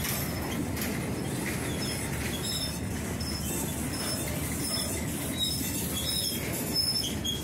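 Freight cars rolling past: a steady low rumble of steel wheels on rail, with short high-pitched wheel squeals recurring about every half second.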